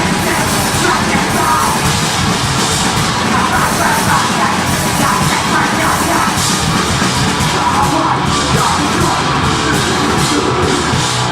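Deathgrind band playing live and loud: distorted guitars and drums, with harsh yelled vocals.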